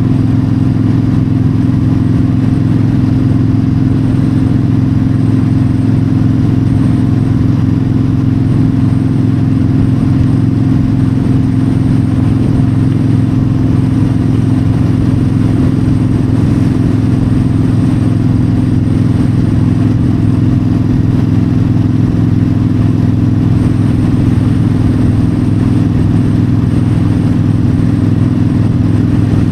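Yamaha V-Star 1300 V-twin engine running steadily at constant cruising speed on the highway, with wind noise. Pitch and level hold even throughout.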